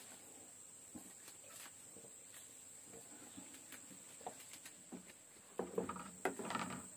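Insects droning steadily in a high, even tone, with scattered light clicks. A short, louder run of knocks and pitched sounds comes near the end.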